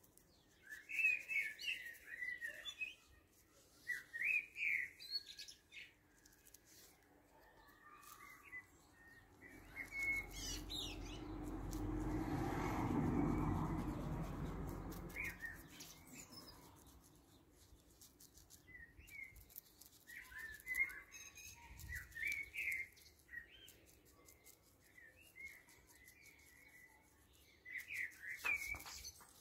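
Small birds chirping and singing in short bursts. Through the middle, a low, broad rumbling noise swells and fades over about six seconds, louder than the birdsong.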